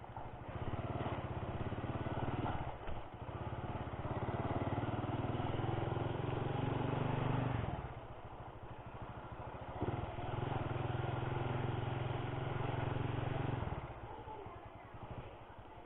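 Motorcycle engine running while riding, opening the throttle three times and easing back between, the engine note rising and falling with each pull.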